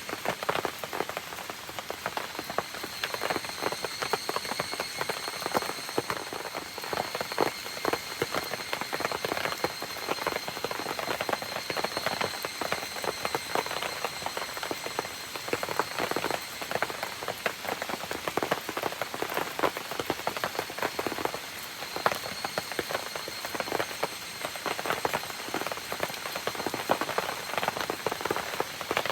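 Steady rain falling, with dense sharp drop hits and crackles over a continuous hiss, as rain on a campfire and the forest around it. Thin steady high tones run underneath.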